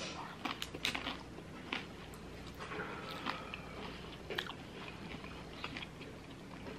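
A person biting and chewing a crunchy fried taco: irregular, close crunches and wet mouth sounds, a little denser near the start and again about four seconds in.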